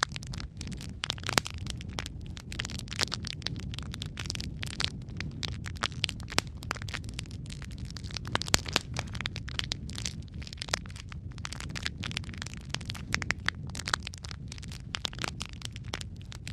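Wood fire crackling and popping: a steady stream of irregular sharp snaps, with a few louder pops, over a low steady rumble of the flames.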